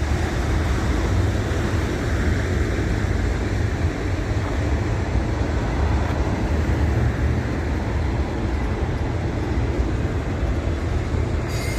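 Freight train cars rolling past close by: a steady, heavy rumble of steel wheels on the rails.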